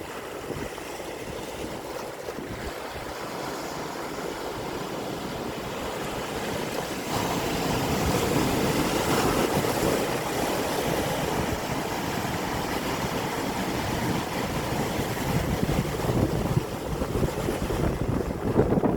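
Sea waves washing and breaking, with wind rushing on the microphone; the surf grows louder about seven seconds in.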